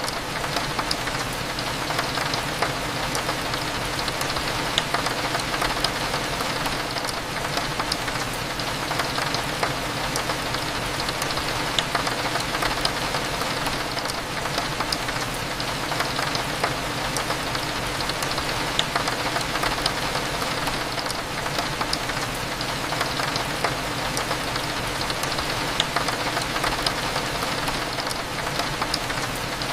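Steady rain falling on a window, with many small drop ticks throughout, over a low steady hum.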